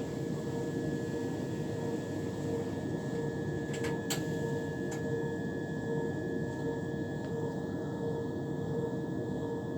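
Steady hum of a stationary Class 377 electric train's onboard equipment and air conditioning, with two constant tones over a low rumble and a few faint clicks a little before halfway.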